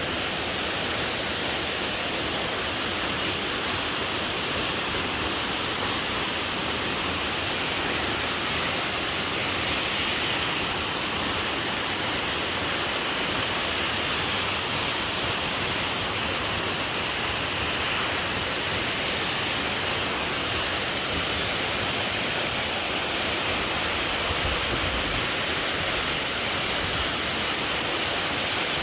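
A waterfall's falling water, a steady, unbroken rushing noise.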